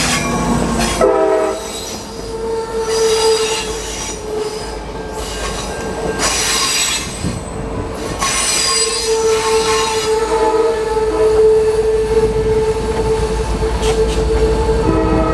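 Amtrak Piedmont passenger train pulling into the station, its wheels and brakes squealing with a steady high tone as it slows to a stop, over the rumble and hiss of the passing cars.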